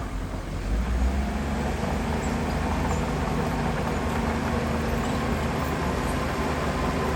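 Heavy diesel earthmoving machinery running steadily, its engine drone low and continuous with a slight surge about a second in.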